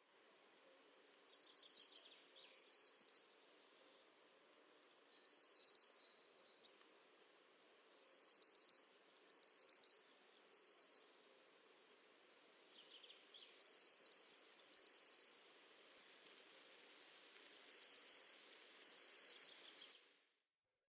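A small songbird singing: about ten short, high phrases in clusters of two or three, each two quick downward-slurred notes followed by a rapid trill, with pauses of a second or two between clusters.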